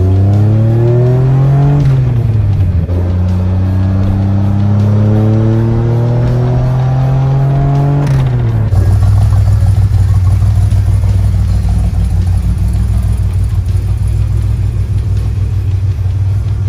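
Cammed DeLorean DMC-12's V6 engine heard from inside the cabin, pulling hard: its note rises, drops back about two seconds in as with a gear change, and climbs steadily again. About eight seconds in it drops once more and settles into a steady low, choppy running sound.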